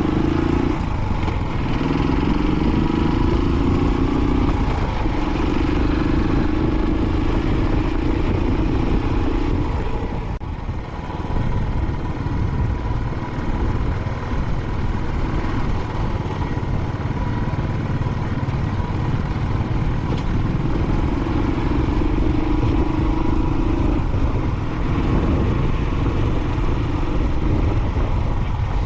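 Royal Enfield Classic 500 single-cylinder motorcycle engine running under way at road speed, a steady loud drone with a brief dip in loudness about ten seconds in.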